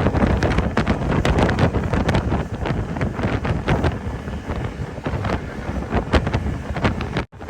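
Wind buffeting the microphone aboard a speedboat under way, over the steady rush of the moving boat. The sound cuts out for an instant near the end.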